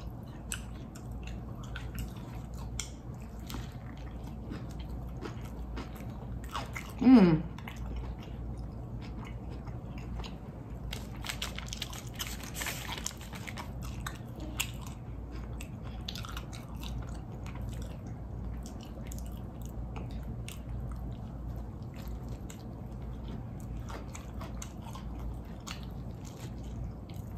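Close-miked biting and chewing of a fried chicken sandwich: wet mouth clicks and crunches. A short sound falls in pitch about seven seconds in.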